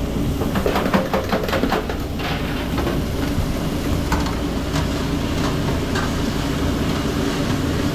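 Steady machine drone of a food truck kitchen running, with a quick run of metal clicks and clatter about a second in and a few more clicks later.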